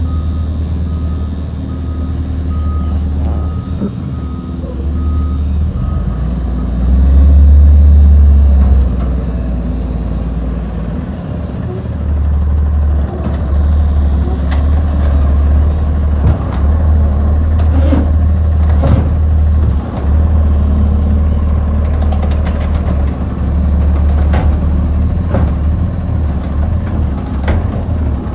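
Garbage truck's diesel engine running, with its backup alarm beeping steadily for about the first six seconds as it reverses. The engine surges loudest a few seconds later, then runs on with scattered knocks and clanks.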